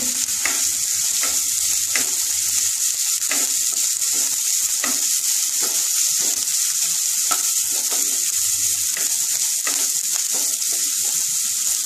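Chopped onion and grated carrot sizzling in a little oil in a nonstick kadai, stirred with a spatula that scrapes the pan in short strokes about once or twice a second over a steady frying hiss.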